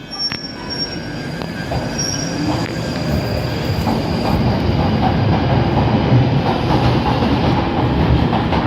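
London Underground Northern line train running through the station, its rumble growing steadily louder, with a thin high wheel squeal near the start.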